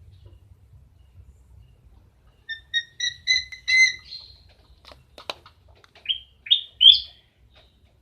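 Bird chirping: a quick run of short, clear chirps, then a few sharp clicks, then three short upward-sweeping calls near the end.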